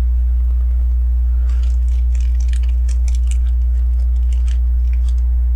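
Small plastic LEGO pieces clicking and rattling as they are picked up and handled, a run of light clicks through the middle, over a steady low electrical hum.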